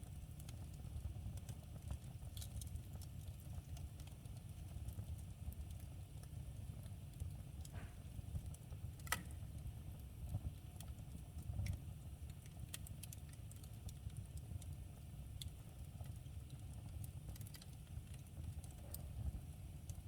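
Wood fire burning in a fireplace, crackling with scattered sharp pops over a low steady rumble; the loudest pop comes about nine seconds in.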